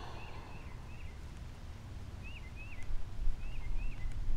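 A bird singing: short whistled notes that rise and fall, repeated in pairs, over a steady low rumble with a few louder bumps near the end.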